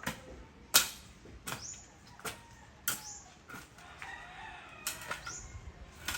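Sharp chopping knocks, roughly one every half to three-quarters of a second, from a blade hacking at tree branches. A chicken clucks around the middle.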